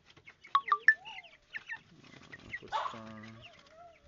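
Three-week-old broiler chickens peeping and clucking, with a run of loud sharp peeps about half a second in and wavering calls after.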